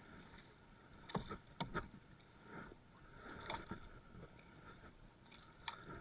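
Faint knocks and scrapes on the wooden hull of a jukung, a Balinese outrigger canoe, in an irregular run: a quick cluster about a second in, more around the middle and one near the end.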